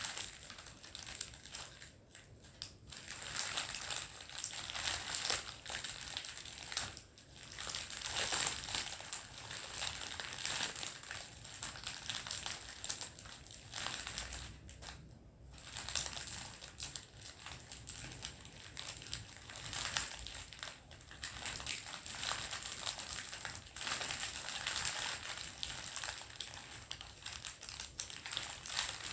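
Plastic candy wrappers being crinkled and crumpled by hand, a continuous crackling that dips briefly every few seconds.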